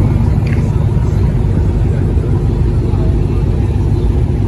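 A car engine running steadily at idle, loud and low-pitched, with voices in the background.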